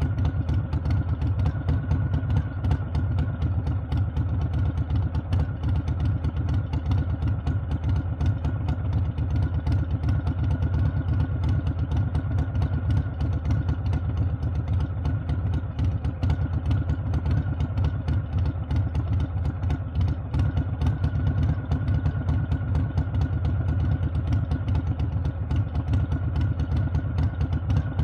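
Harley-Davidson V-twin engine and exhaust running steadily at an even pace, its rapid firing pulses holding constant with no revving.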